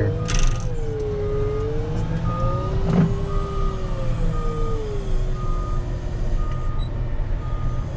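Rubber-tire wheel loader reversing: its backup alarm beeps about once a second over the diesel engine, whose pitch rises and falls slowly as the machine works.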